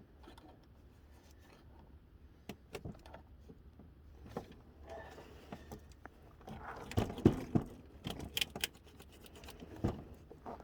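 Scattered clicks, knocks and metallic clinks of hand tools and loose metal parts being handled during engine removal, with a louder cluster of knocks about seven seconds in.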